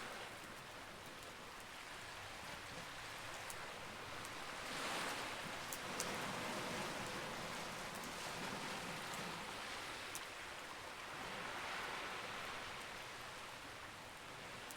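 Campfire burning, with a few sharp crackling pops over a steady rushing hiss that swells twice, slowly.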